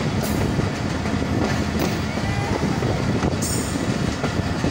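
Mohenjo Daro Express running at speed, heard from aboard: a steady rumble of wheels on the rails, with brief high hisses about every second and a half.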